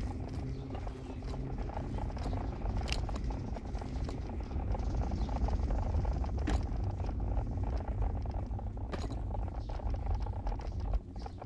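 Steady low rumble of a vehicle in motion, with a few sharp clicks about three, six and a half, and nine seconds in.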